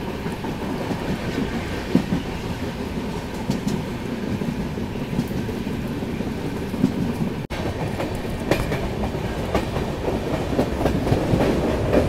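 Express passenger train running, heard from on board: a steady rumble of the coach on the track with the clickety-clack of wheels over rail joints. The clacks come more often and louder in the second half, after a brief break about halfway.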